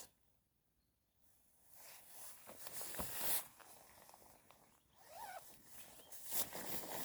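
Footsteps crunching on the ground, starting about a second in as a series of uneven steps.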